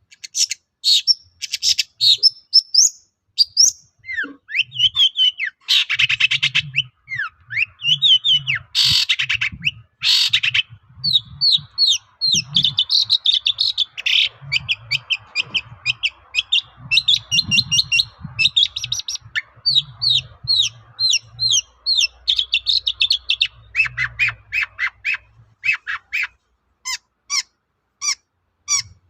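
Long-tailed shrike (cendet) in full song: a fast, varied run of short, sharp whistled and chattering notes, with a few harsh rasping calls in the first third.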